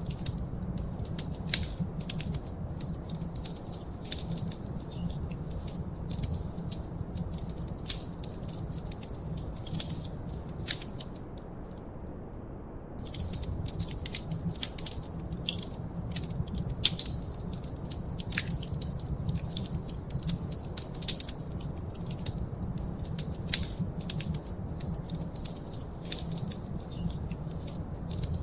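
Wood fire in a fireplace crackling: frequent irregular sharp pops and snaps over a low steady rumble of the flames. The crackles stop for about a second partway through.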